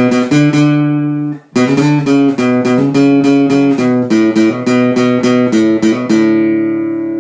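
Guitar playing the instrumental ending of a song: rhythmic chord strokes with a short break about a second and a half in, then a final chord that is held and left to ring out.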